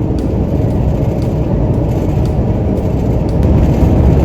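Steady engine and road noise heard from inside a truck's cab while it cruises on the expressway.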